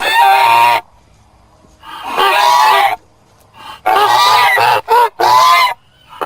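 Goose honking: about five loud, harsh calls in an uneven series, the last three coming close together.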